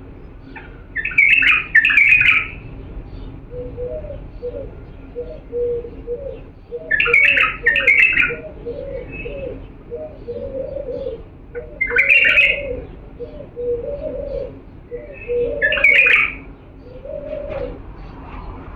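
Bulbul singing: four short, loud song phrases spaced several seconds apart. Underneath, from about four seconds in, a lower, softer call repeats steadily from another bird.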